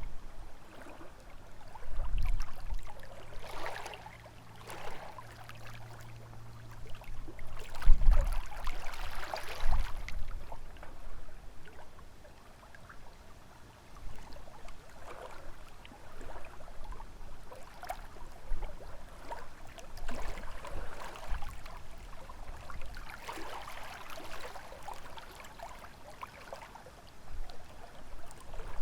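Small lake waves lapping and splashing against the shore in irregular swells, with gusts of wind rumbling on the microphone now and then.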